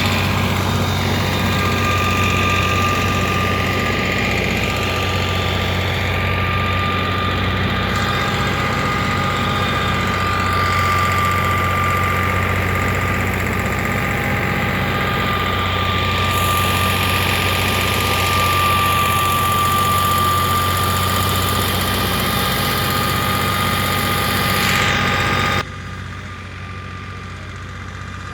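Fiat 480 tractor's diesel engine running steadily while it drives a wheat thresher, with a steady high whine over the engine. About 26 seconds in, the sound cuts off suddenly to a quieter engine sound.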